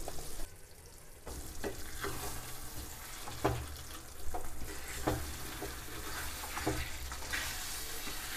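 Mutton masala sizzling in a kadhai on the stove while being stirred with a spatula, starting about a second in, with repeated short knocks of the spatula against the pan.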